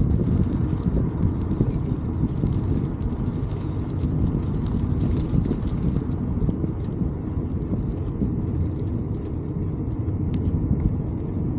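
Wind buffeting the microphone while riding: a steady low rumble with no engine tone.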